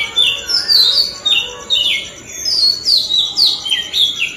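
Birds chirping: a quick, continuous run of short chirps that slide downward in pitch, several overlapping, over a faint steady high-pitched pulsing trill.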